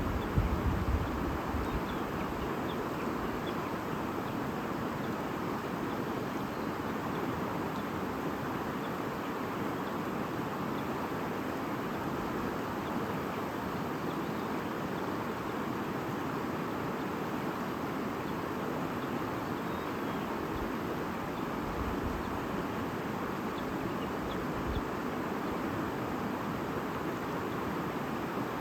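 Steady babbling of a shallow stream running over stones, with a few faint bird chirps now and then. Low rumbles of wind on the microphone come in the first second and again about three-quarters of the way through.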